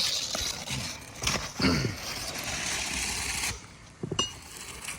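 Asphalt shingles rustling and scraping as they are handled on the roof, with one sharp knock about four seconds in.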